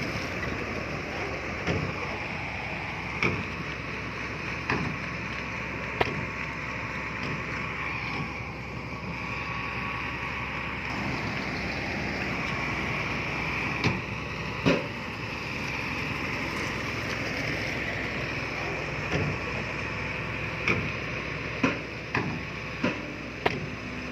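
Heavy earthmoving machinery running steadily, with short sharp knocks every few seconds and a quick run of them near the end.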